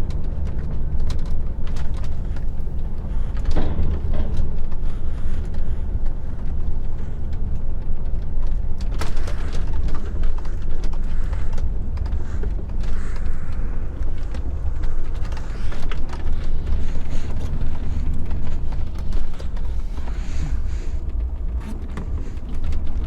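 Heavy goods lorry driving on the road, heard from inside the cab: a steady low engine and road rumble, with scattered light knocks and rattles.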